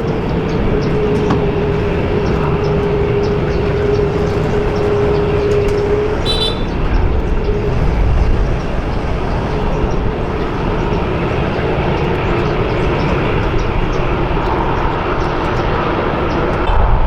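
Jet airliner engines running loud and steady, a deep rumble with a whining tone that sinks slightly over the first six seconds and then fades.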